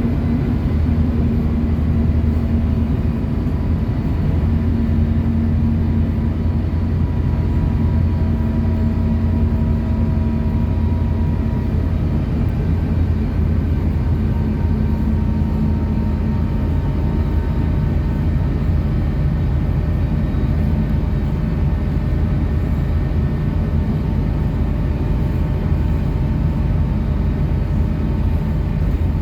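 City bus driving along at steady speed: continuous engine drone and road rumble, with a faint whine that drifts slowly in pitch.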